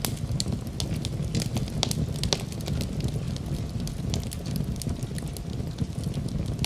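Fire burning in a fireplace: a steady low rumble of flames with frequent sharp crackles at irregular intervals.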